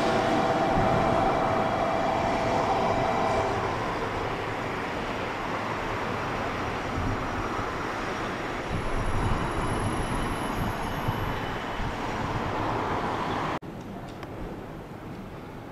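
JR Kyushu BEC819 series DENCHA battery-electric train running along a station platform, a steady whine over its running noise for the first few seconds. About 13.5 seconds in the sound drops abruptly to the quieter noise of a more distant train.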